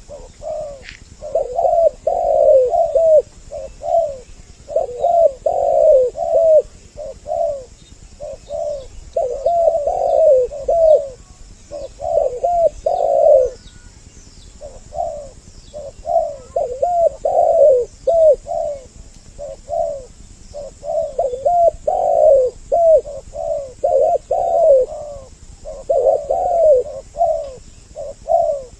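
Two spotted doves (tekukur) cooing, their repeated phrases overlapping one another almost without pause. This is a dove lure call, used to draw in other tekukur.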